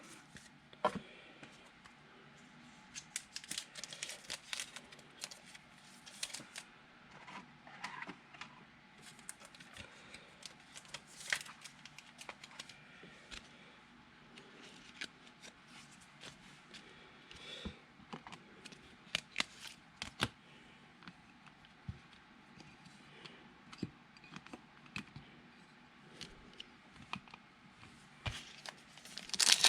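Trading cards being handled at a table: faint, irregular clicks, taps and slides of card stock as the cards are sorted and set down.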